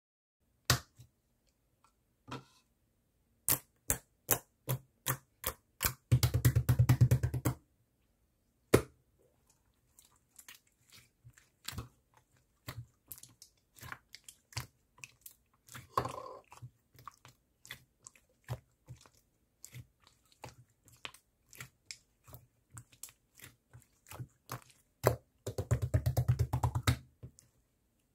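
Cola slime being pressed and squeezed by hand, giving scattered sharp sticky clicks and pops. Twice, about six and twenty-five seconds in, it breaks into a run of fast crackling.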